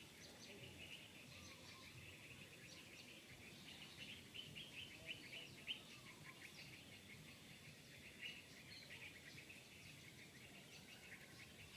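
Faint outdoor wildlife ambience: a dense run of short, high chirps, busiest about four to six seconds in.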